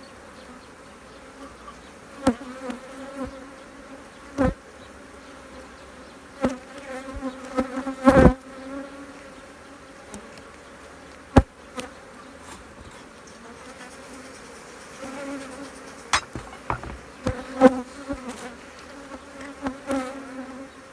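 Honeybee colony buzzing in a steady hum from an opened hive during a frame-by-frame inspection, with sharp knocks and clicks every few seconds, the loudest cluster about eight seconds in.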